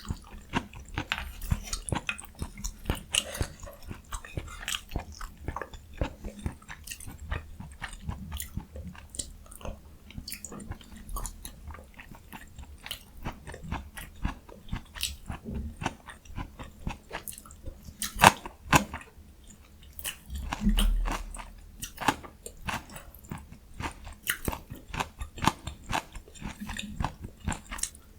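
Close-miked chewing of jjajang ramyun noodles and crunchy young summer radish kimchi: a steady run of quick, irregular wet clicks and crunches, with a brief low, louder thump about three-quarters of the way through.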